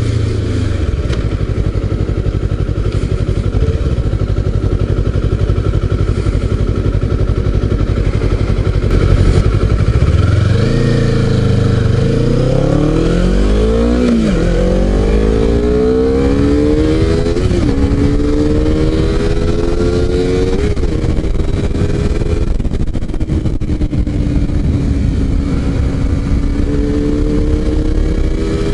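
Honda CBR250RR parallel-twin engine heard from the rider's seat with wind rush. It runs steadily at low revs at first; about ten seconds in it revs up and pulls through the gears, its pitch dropping at three upshifts, then settles into a steady cruise.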